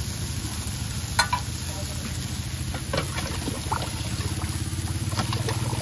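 Pad thai noodles and bean sprouts frying on a large flat iron pan with a steady sizzle, over a low steady hum. A metal ladle clinks and knocks against a steel sauce pot, sharpest about a second in, with lighter knocks as the sauce is stirred later on.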